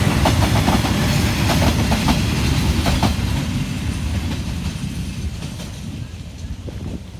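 Freight train wagons rolling past on the rails, the wheels clacking sharply over rail joints for the first few seconds, then the rumble fading away as the train moves off.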